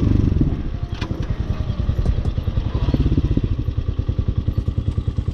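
Hawk 250 single-cylinder four-stroke engine idling low, with an even chugging of about ten pulses a second, settling down from a higher speed at the start. A sharp click about a second in.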